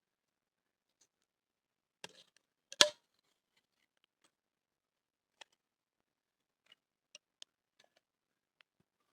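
Small bamboo stalk snapped by hand: a brief crackle, then one sharp crack about three seconds in, followed by scattered faint ticks and clicks.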